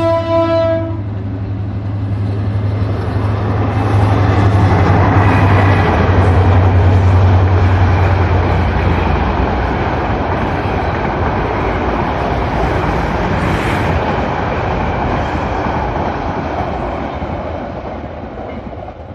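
Diesel-hauled Bangladesh Railway express train passing at speed: its horn ends about a second in, then the locomotive's low drone and the rush of wheels and coaches on the rails, loudest a few seconds in and fading as the train moves away.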